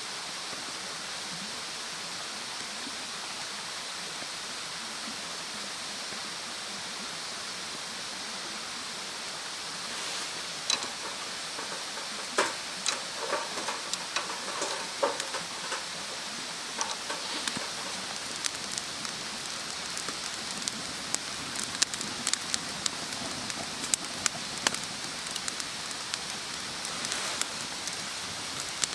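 Wood campfire crackling, with sharp irregular pops and snaps that begin about a third of the way in and come more often toward the end, over a steady hiss.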